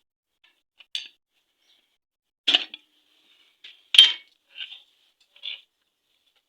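Metal hand tools and engine parts clinking, metal on metal, while 10 mm nuts on a Honda Shine engine are being tightened: about six separate short clinks, the loudest about four seconds in.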